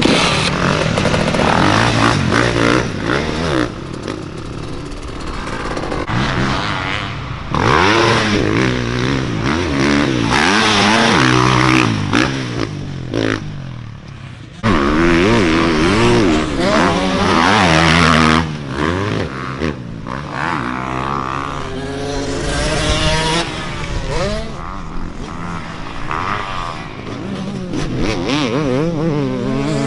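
Motocross dirt bike engines revving hard, pitch climbing and dropping again and again as the bikes shift and throttle through the track. About halfway through the sound cuts in suddenly at full throttle.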